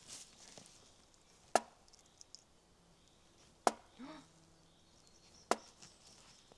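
Three sharp chopping blows, about two seconds apart, each followed by a short softer sound.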